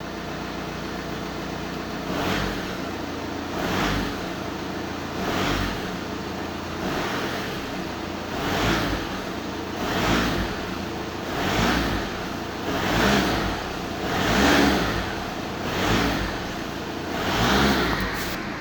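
A car engine idling and being revved in short blips, one about every second and a half, each rising and falling back to idle.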